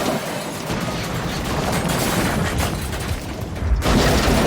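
Runaway railway trucks crashing down into a ravine: a rumbling clatter of impacts and smashing, with a fresh loud crash near the end.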